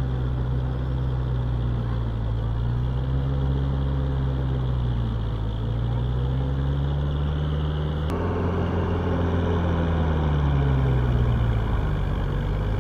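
Tractor diesel engine pulling a rotavator through hard soil, its pitch sagging and recovering as the load rises and eases. There is an abrupt break about eight seconds in.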